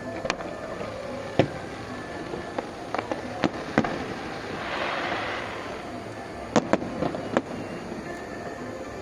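Fireworks going off: sharp bangs at uneven intervals, some in quick pairs, with a crackling hiss that swells and fades about halfway through.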